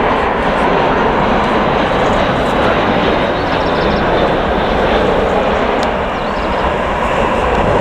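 Jet airliner engines running loud and steady, a dense roar with a faint held whine.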